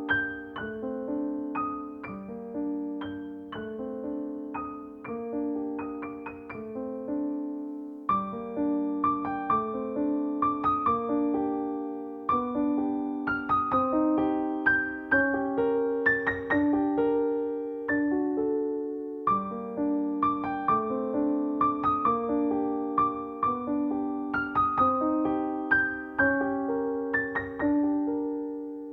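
Background piano music: a gentle melody played over repeating lower notes, each note struck and fading.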